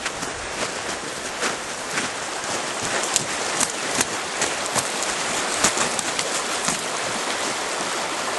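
Steady rush of a running stream, with irregular sharp clicks and crackles over it.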